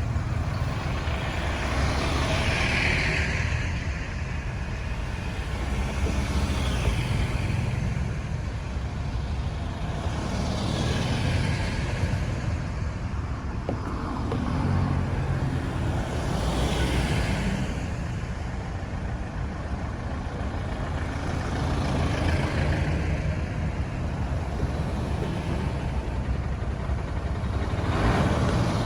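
Road traffic on a busy road: a steady low engine and tyre rumble, with a vehicle passing close by every few seconds in a rising and falling hiss.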